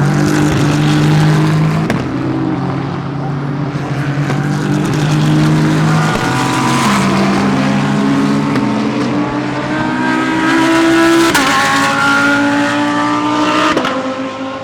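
GT3 race car engines running hard at racing speed. The engine note climbs and then steps as the gears change several times.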